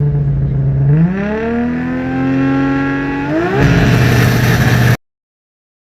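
A car engine being revved: its pitch climbs smoothly about a second in and holds high, rises once more just past three seconds, then drops back. The sound cuts off abruptly at about five seconds.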